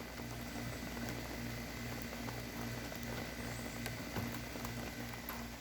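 Steady electrical hum from a switched-on CB-driven PA system, with a low tone pulsing on and off about every two-thirds of a second.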